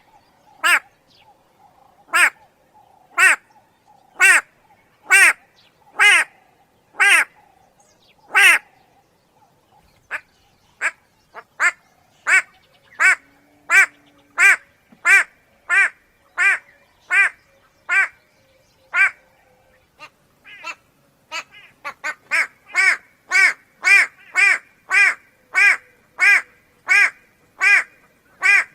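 White-bellied go-away-bird calling: a long series of loud, short calls repeated about once a second, with a brief pause about a third of the way through. The calls come faster near the end.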